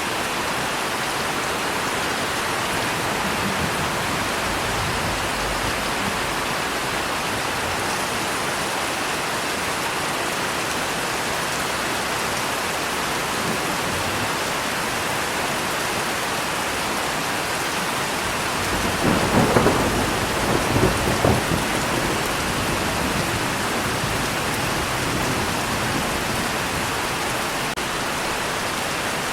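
Steady, even rain, with a roll of thunder about two thirds of the way through that rumbles in several peaks over about three seconds and fades back into the rain.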